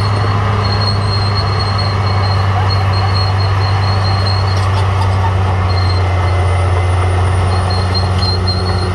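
Caterpillar D6R XL bulldozer's diesel engine running steadily under load, a deep even drone, with a faint high squeal that comes and goes.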